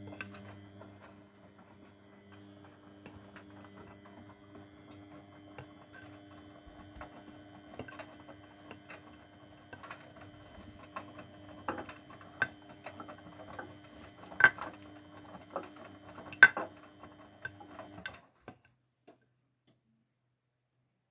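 Grundig washing machine's drum motor humming steadily as the drum turns the load, with irregular clicks and a few sharper knocks from the tumbling laundry. The motor stops abruptly about 18 seconds in.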